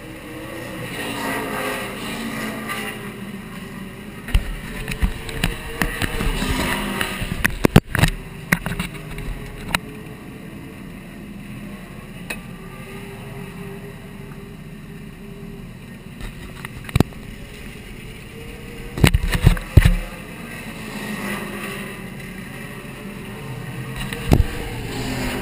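Race car engine running while parked, its revs slowly rising and falling, with several sharp knocks and thumps close to the camera.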